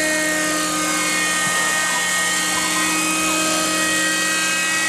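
Helicopter running steadily, a constant whine of several steady tones over rushing rotor and engine noise.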